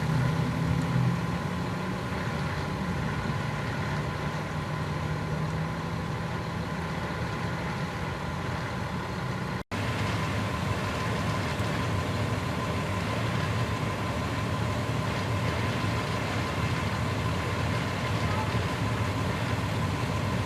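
A vehicle engine idling steadily, with a low hum, cut off briefly by an edit about ten seconds in.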